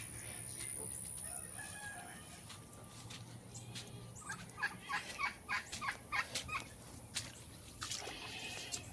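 Farm poultry calling: a quick run of about eight short clucking calls a little past halfway, with scattered soft clicks around them.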